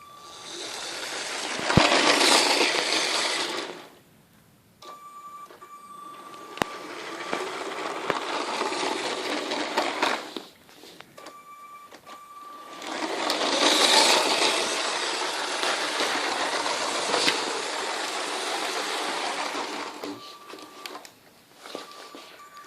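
LEGO City 60051 high-speed passenger train running on plastic track, its Power Functions motor and wheels making a steady whirring rattle that swells as the train passes close, twice about twelve seconds apart, and drops away in between, where a faint thin whine remains.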